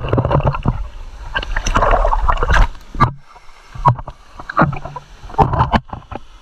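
Water splashing and sloshing in irregular loud bursts, close to the microphone.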